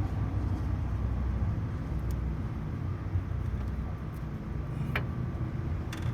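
A steady low rumble of a running motor vehicle, with two light clicks near the end.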